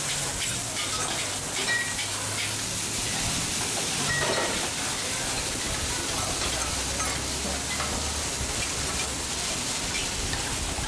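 Flat noodles sizzling in sauce in a large shallow pan as they are stirred and lifted with a metal ladle and spatula: a steady frying hiss.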